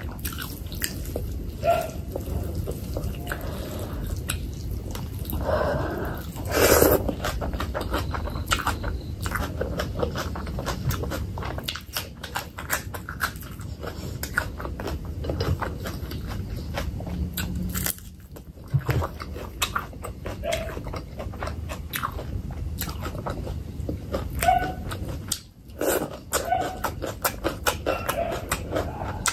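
Close-miked chewing of a big mouthful of fatty pork belly curry and rice: steady wet chewing and smacking with many small clicks. Louder bites come about seven seconds in and again near 25 seconds.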